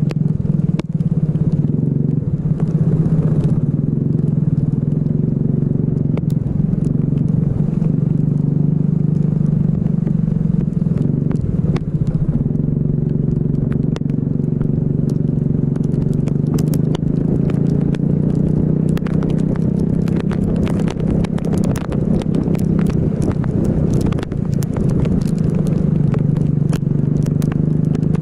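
Racing kart engine running hard, its pitch rising and falling a little as it drives through corners. Sharp crackling ticks grow denser in the second half.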